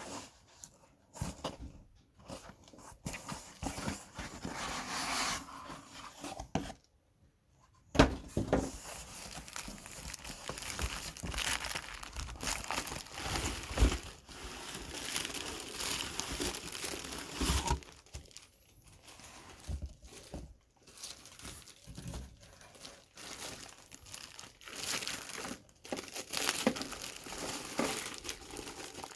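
Packaging being unwrapped by hand: plastic and paper crinkling, rustling and tearing in irregular bursts. There is a short pause about seven seconds in, and a few dull knocks.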